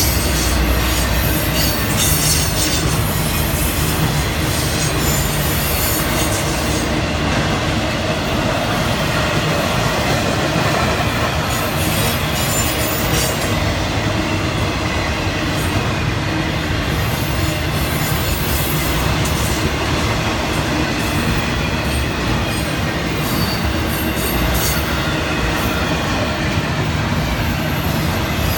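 Florida East Coast Railway intermodal freight cars rolling by, a loud, steady rumble and clatter of steel wheels on the rails, with occasional high-pitched wheel squeals.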